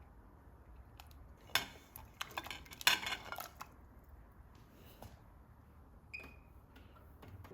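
Dishes and kitchen utensils clattering: a quick run of clinks and knocks about two seconds in, then a few single taps and one short ringing clink near the end.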